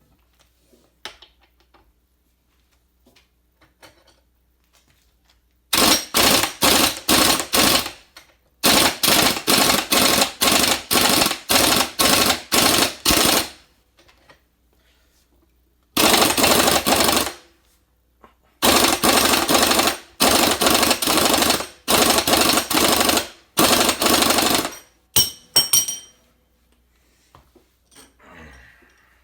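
Impact wrench hammering on the stuck, Loctited 19 mm front bolt of a Mazda RX-8 rotary engine's eccentric shaft, fired in repeated short bursts of rapid impacts with short pauses between.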